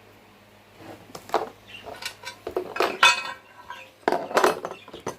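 Metal parts and tools clinking and clattering as they are picked up and set down, in an irregular run of knocks starting about a second in.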